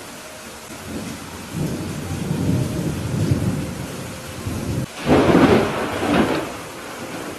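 Steady rain falling during a thunderstorm. A low rumble of thunder builds about a second and a half in, and a louder, sharper thunderclap breaks about five seconds in, with a second peak just after before it rolls away.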